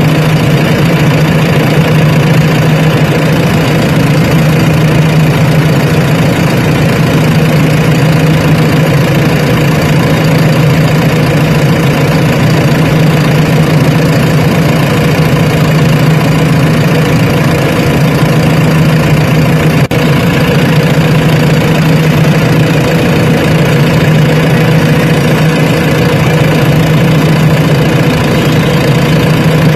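Heavy diesel engine running steadily at a constant speed, with one brief click about twenty seconds in.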